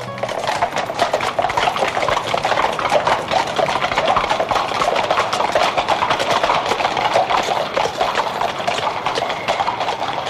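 Horse hooves clip-clopping in a fast, dense clatter of many strikes, the sound of a horse-drawn post coach on the move. It starts suddenly just as guitar music ends.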